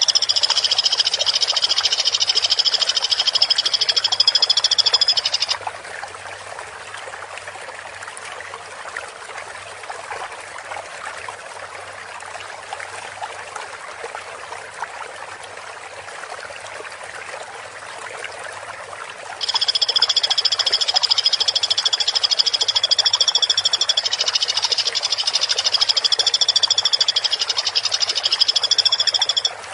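Woodpecker (pelatuk) call: a loud, rapid, buzzing trill held at an even pitch for about five seconds, then stopping. After a long gap of steady hiss it starts again and runs on, wavering slightly in pitch near the end.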